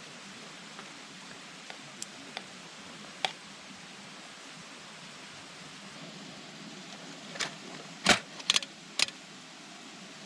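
A few light clicks over a steady hiss, then a quick run of four sharp clinks and knocks from hard objects, about seven to nine seconds in.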